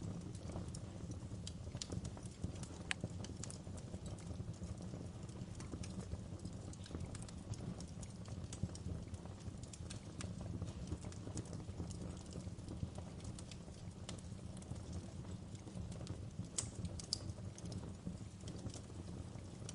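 Wood fire crackling in a fireplace: a steady low rumble of the burning fire with irregular sharp crackles and snaps throughout, a few louder pops near the end.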